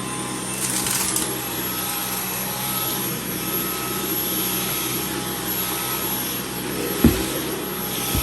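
Vacuum cleaner running steadily. A single low thump comes about seven seconds in.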